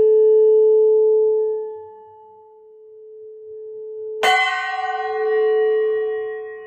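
Metal singing bowl ringing: a steady low tone dies away over the first two seconds. A sharp strike a little past four seconds rings out with many bright overtones that fade, while the low tone swells again with a slight wavering.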